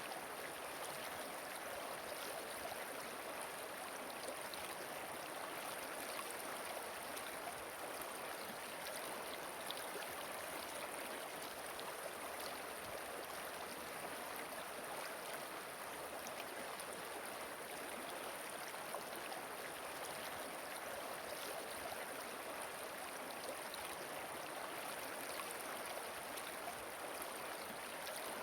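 Steady rush of flowing river water, an even, unbroken wash with no music over it.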